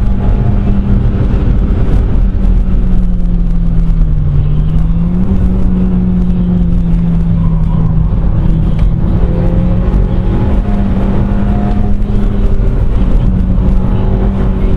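Seat Leon Cupra's engine heard from inside the cabin, pulling hard at high revs through a lap of the circuit with a steady drone over road and wind noise. The pitch dips slightly about four seconds in and climbs back a second later.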